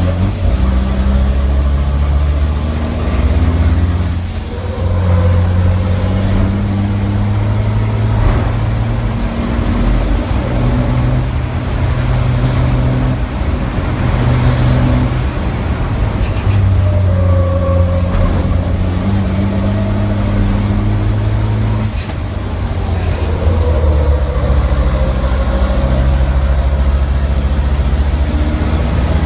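Racing truck's big diesel engine under hard load on track, its pitch climbing and dropping in steps with gear changes and braking. A high turbo whistle rises and falls over it, with a few short bursts of air hiss.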